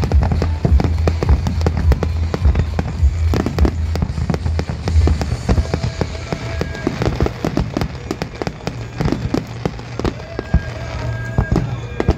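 Aerial fireworks bursting in a rapid, continuous barrage of bangs and crackles, densest in the first half, with music playing underneath.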